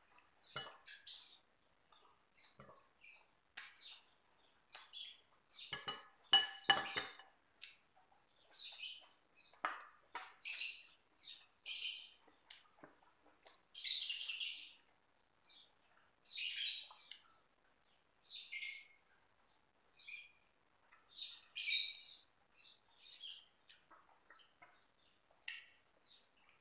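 Close-up chewing and lip-smacking of someone eating noodles, a steady run of short wet mouth sounds about once a second. A few ringing clinks of a spoon against the bowl come about six seconds in.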